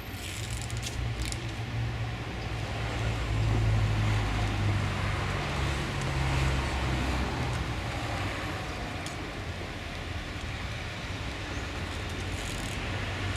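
Motor vehicle engine and road noise: a steady low drone that shifts in pitch and swells about three to four seconds in.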